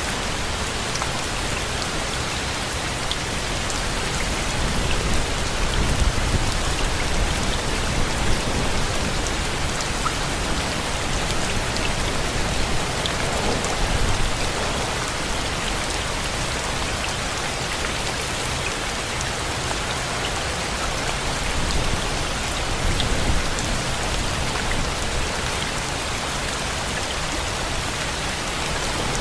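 Steady rain falling as an even hiss with scattered drop ticks, swelling a little in the low end about six seconds in and again around twenty-three seconds in.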